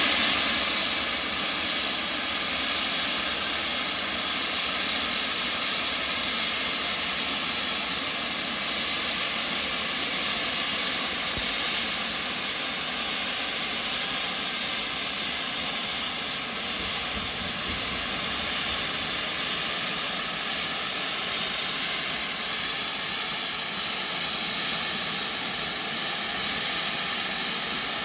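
Steam locomotive letting off steam: a loud, steady hiss with no chuffing rhythm.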